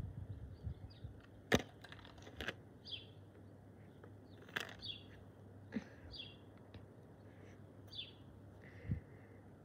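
A bird repeating a short high chirp every second or two, with a few sharp clicks in the first five seconds, the loudest about a second and a half in. Low bumps sound near the start and again near the end.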